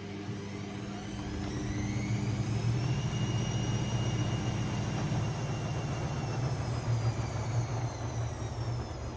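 AEG Lavamat 6610 washing machine's drum motor speeding up. Its whine rises in pitch over the first few seconds, holds, then slowly falls near the end as the drum slows, over a low rumble from the turning drum.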